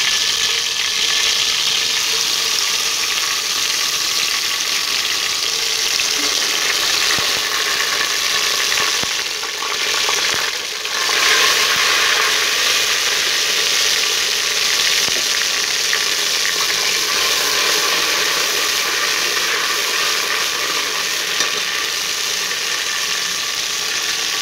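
Ginger, garlic and green chilli paste sizzling steadily in hot oil in a pressure cooker, stirred with a steel ladle. The sizzle dips briefly about ten seconds in, then comes back stronger.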